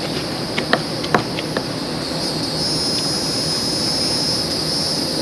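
Steady outdoor background with a high, even insect buzz that grows louder about halfway through, and a few light clicks about a second in.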